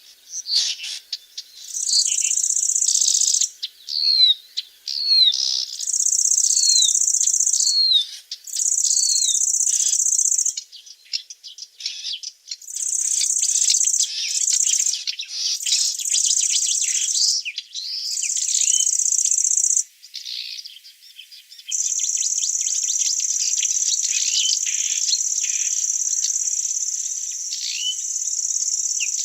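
A loud, high insect trill that switches on and off in stretches of a second or two, then runs steadily from about three-quarters of the way in, with a bird repeating short, downward-sliding call notes over it.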